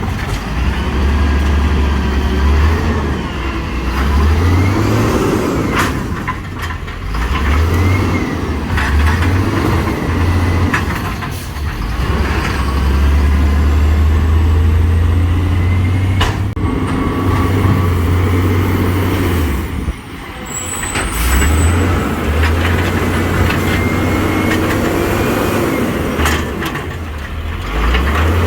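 Vintage garbage truck working a recycling route: its diesel engine rumbles and revs up and down in repeated surges, with faint gliding hydraulic whines. A few sharp bangs or hisses, typical of air brakes and the dumping mechanism, stand out about 6, 16 and 20 seconds in.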